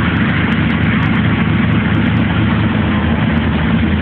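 Pontiac Trans Am's 305 small-block Chevrolet V8 running steadily at low, idle-level revs.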